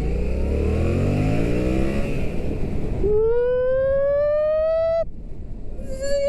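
Yamaha MT-07's parallel-twin engine revving as the motorcycle accelerates, its pitch rising over the first two seconds. About three seconds in, a steady pitched tone rises slowly for two seconds and cuts off suddenly.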